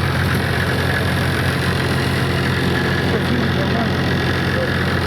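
A vehicle engine idling steadily, a low, even hum, with faint voices in the background.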